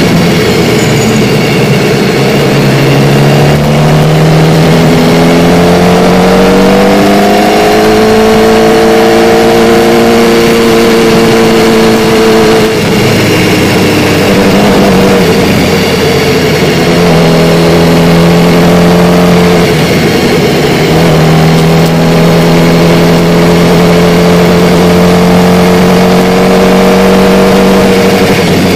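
Sportbike engine heard from the rider's seat, pulling at low revs under light throttle: its note climbs slowly in pitch over the first several seconds, then breaks and drops about twelve seconds in and again around twenty seconds as gears change, before settling into a steady cruise. Wind noise rushes over the microphone.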